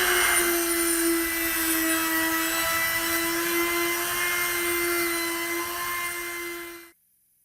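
Small electric power tool running with a steady, high-pitched motor hum and a hiss of abrasion on the metal, stopping abruptly near the end.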